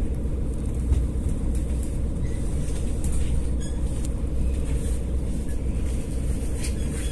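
Interior of a moving diesel passenger train: a steady low rumble of the running train, with a faint steady hum and a few light clicks over it.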